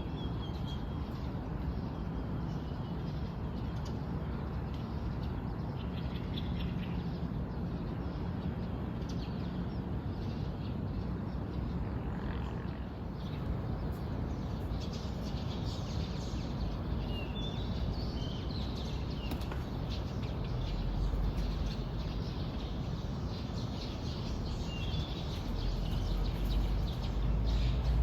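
Small birds chirping and calling in short, scattered phrases over a steady low rumble, which grows louder over the last several seconds.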